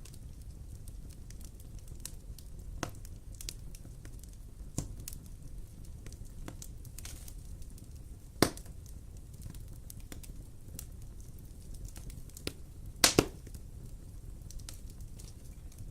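Wood fire burning in a fireplace, crackling with scattered sharp pops over a low steady rumble; the loudest pop comes about halfway through, and a quick double pop follows near the end.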